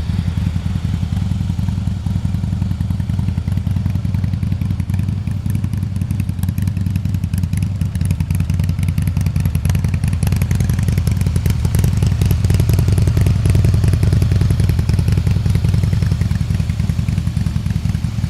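Harley-Davidson FXSBSE Pro Street's V-twin engine idling through a Jekill & Hyde exhaust, a steady deep rumble of even firing pulses that swells a little louder about ten seconds in.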